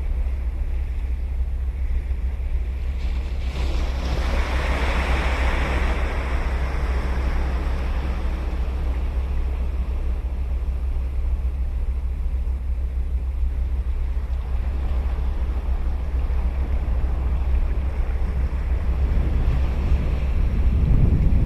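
Sea waves breaking on a beach: one wave crashes about three and a half seconds in and its wash slowly fades, and another builds near the end, over a steady low rumble of wind on the microphone.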